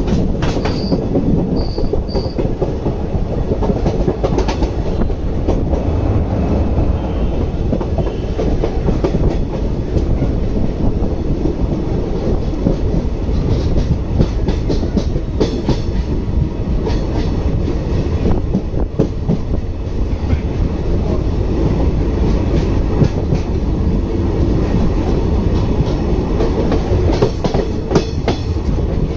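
Train running steadily along the track, heard from on board a carriage: a constant low rumble with scattered sharp wheel clicks.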